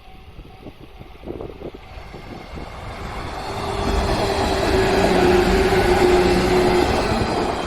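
An electric train passing a level crossing: its rumble swells over a few seconds to a peak with a steady hum, then starts to fade near the end.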